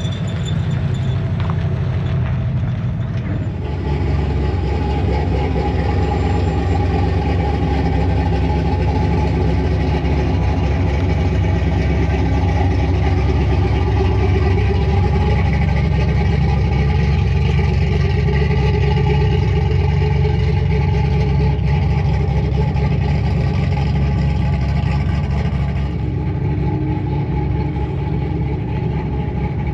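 Truck engine running steadily, stepping up louder about three and a half seconds in.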